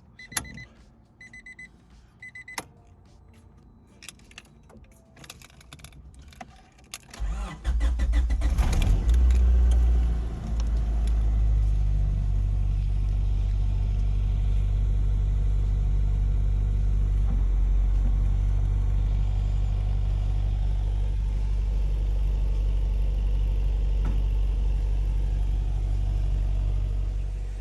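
A beeping chime and a few clicks are followed, about seven seconds in, by the starter cranking the Integra's B18C four-cylinder briefly. It catches and runs at high revs, dips, then settles into a steady idle. This is its first start on fresh oil after sitting about a year.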